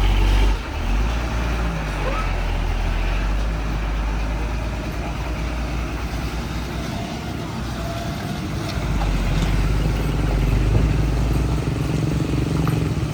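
Heavy truck engine running hard with a deep, steady drone. It eases about half a second in and builds again about nine seconds in.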